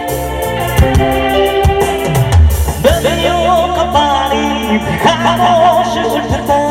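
Live Bollywood band music: electronic keyboard with a steady drum beat, and a wavering melody line coming in about three seconds in.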